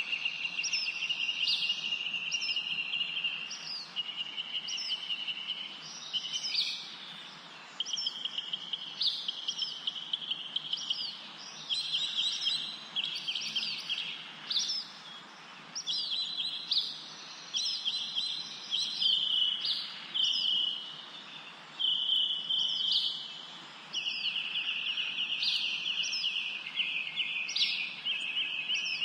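Songbirds singing: a run of high trilled phrases, each a second or few long with short gaps between, with quick rising notes above them, over a steady background hiss.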